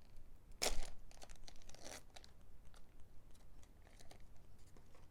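Foil booster-pack wrapper being torn open and crinkled, with two sharp rips about half a second and two seconds in, followed by small rustles and clicks of handling.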